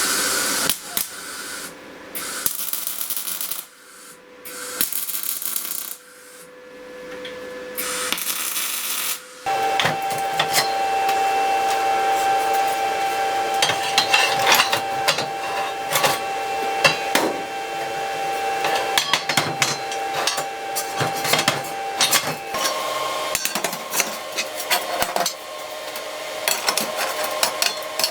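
Workshop tool sounds: a few short bursts of hissing noise broken by abrupt cuts, then about nine seconds in a steady machine hum with many sharp metallic clicks and knocks.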